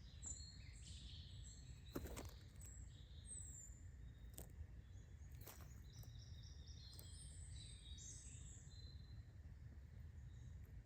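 Small birds chirping and calling, with short high chirps and quick falling sweeps, faint over a steady low outdoor rumble. A few sharp clicks sound, the strongest about two seconds in.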